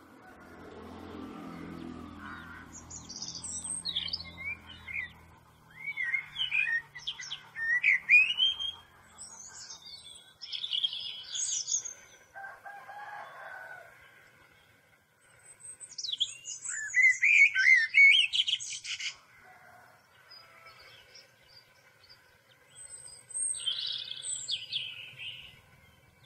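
Birds chirping in several bursts of quick, high, sliding notes with pauses between them. A low hum lies under the first few seconds.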